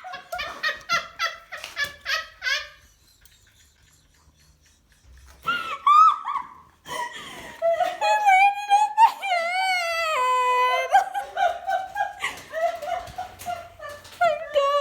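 Hearty laughter in rapid bursts. A long, high, wavering laugh comes in the middle, after a short quiet pause, and then the bursts pick up again.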